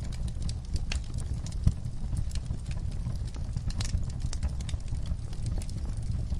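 Fireplace fire crackling: a steady low rumble of burning with irregular sharp pops and snaps throughout, and a louder knock about a second and a half in.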